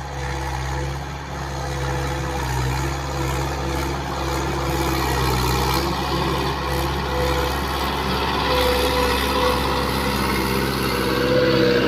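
Farm tractor engine running steadily, getting a little louder over the last few seconds.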